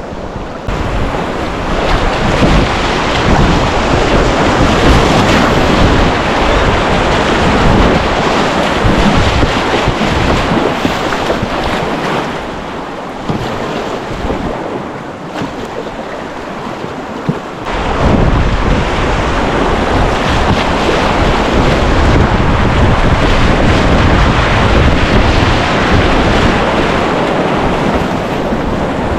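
Loud rushing of surf and water with wind buffeting the microphone. It eases for several seconds in the middle and then surges back.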